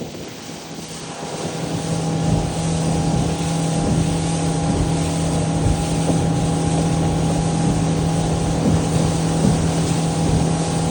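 Motorboat engine picking up over the first couple of seconds, then running at a steady pitch, with wind buffeting the microphone.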